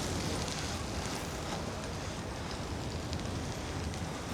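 Bicycle rolling over a slushy, snowy bike lane: the steady hiss and crackle of the tyres through wet slush, with wind rumbling on the microphone.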